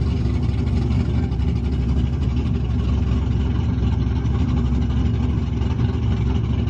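Car engine idling steadily, a low, even sound with no revving.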